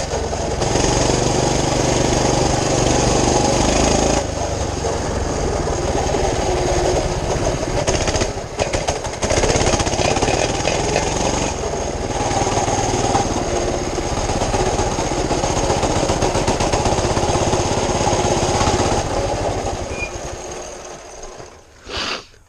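Small mini bike engine running with a fast, steady firing beat, stumbling briefly about eight seconds in and dying out near the end. The owner thinks its carburetor jet needs to be opened up a little.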